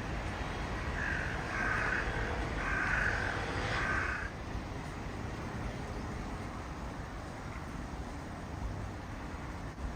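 A bird gives four harsh, drawn-out calls in a row over a steady low background rumble.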